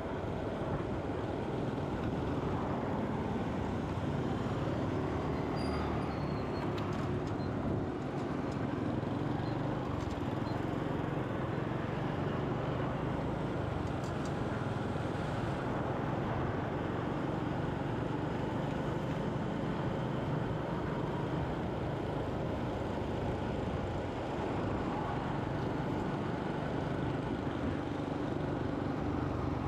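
Steady road and traffic noise from a motorcycle riding through city traffic.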